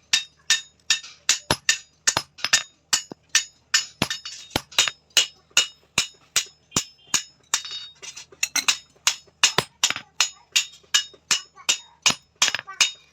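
A hand hammer striking hot steel on an anvil in steady, rapid blows, about three to four a second, each blow with a bright metallic ring: hand forging of a piece of bearing steel.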